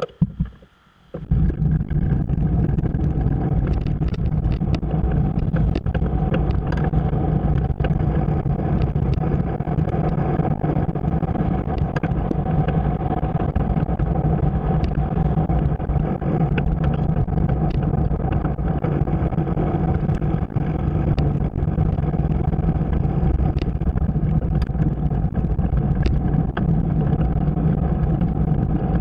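Motorcycle engine running steadily at a constant speed, heard on the move, starting suddenly about a second in after a brief near-silent gap.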